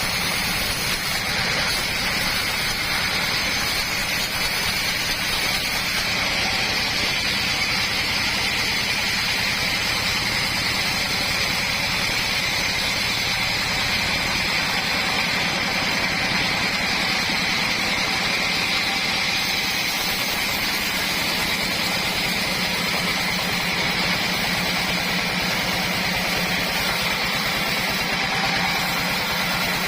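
Homemade sawmill running steadily, its motor and saw blade going at a constant pitch with no breaks.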